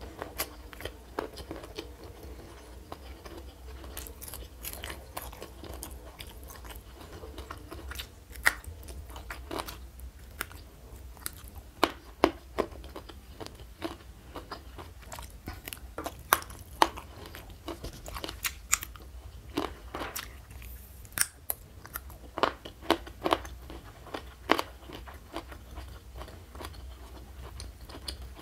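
Close-miked chewing and biting of food, with frequent sharp, crisp crunches at irregular intervals.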